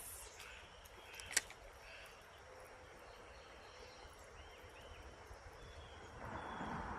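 Faint riverside ambience: scattered short bird calls over a thin, steady high insect drone, with one sharp click a little over a second in and a louder rush of noise near the end.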